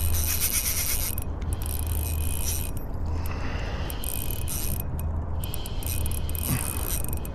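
Spinning fishing reel being cranked, the rotor and gears whirring and clicking steadily as line is wound in on a hooked fish.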